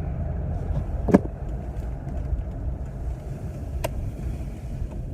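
Car interior road and engine noise while driving, a steady low rumble. Two sharp clicks break through, about a second in and near four seconds.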